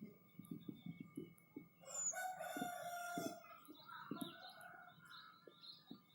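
A rooster crowing once, about two seconds in, with a shorter, weaker call a little later. Faint scattered low pops sound in the background.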